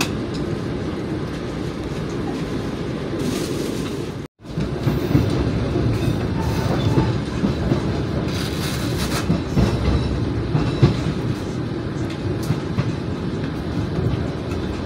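Argo Cheribon passenger train running on the rails, heard from inside the carriage: a steady rumble with irregular wheel knocks as it crosses the points. The sound cuts out for a moment a little over four seconds in.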